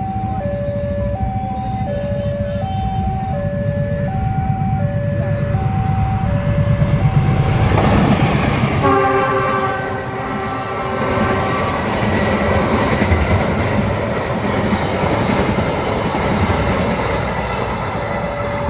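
A level-crossing warning alarm sounds its alternating two-note tone as a train approaches. About nine seconds in, a train horn sounds a chord for about two seconds, then a passenger train rumbles past with its wheels clattering over the rails.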